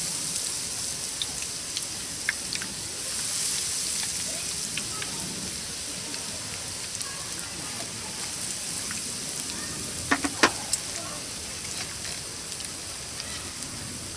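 Wood campfire burning with a steady hiss and scattered crackles, and a quick run of sharper pops about ten seconds in.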